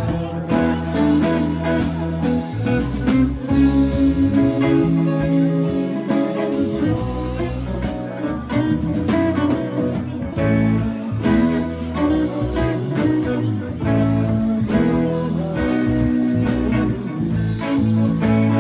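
Live rock band playing an instrumental jam, with guitar lead over bass and drums.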